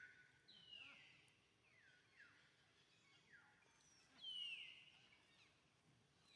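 Faint bird calls: a run of high whistles, each sliding down and then holding, repeated about every second, the loudest a little past four seconds in.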